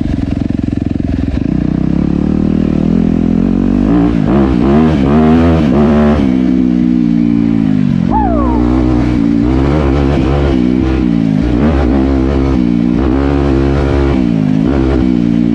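Dirt bike engine revving up and down while riding a trail, its pitch climbing and dropping again every second or two.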